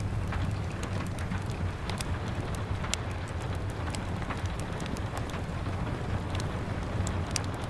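Steady patter of rain against a window, mixed with a wood fire crackling, its sharp pops scattered irregularly through a low, even rumble.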